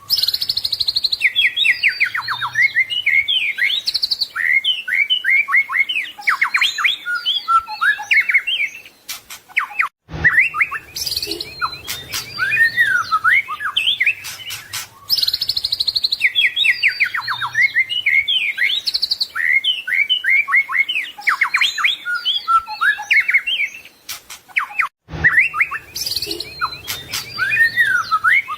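White-rumped shama singing a long, varied song of fast whistles, trills and rattling notes. The song breaks off briefly about ten seconds in and again near the end.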